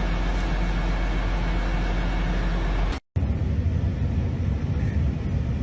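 Steady engine rumble with a low hum. It cuts out for a moment about three seconds in and then gives way to a different steady low rumble.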